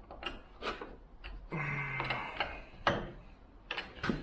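Irregular metallic clicks and small knocks as the loose chain on a chainsaw bar clamped in a vise is tensioned for sharpening, its links ticking against the bar. A short low hum comes about a second and a half in.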